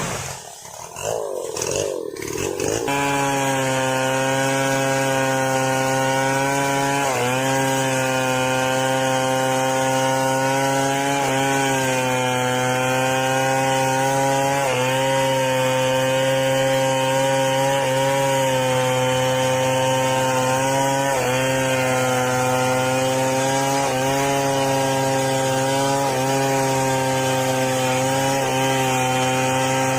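Chainsaw running steadily under load as it cuts through wood, its engine pitch dipping briefly every few seconds as the chain bites in. The first few seconds are more irregular before the saw settles into the cut.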